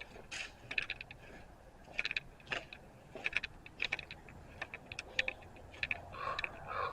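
Footsteps crunching over gravel and debris at an irregular walking pace, with many short scrapes and clicks.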